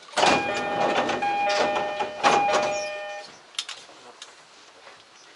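Train horn sounding for about three seconds, a chord of several steady tones over rushing noise, cut off sharply; quieter rail running sound follows.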